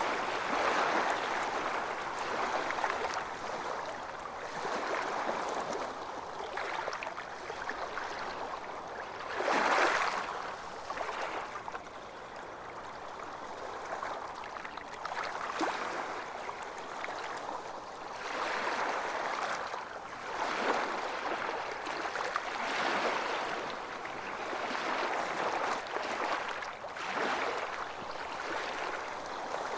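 Small ocean waves washing onto a beach: a steady rush of surf that swells and ebbs every few seconds, with the loudest surge about ten seconds in.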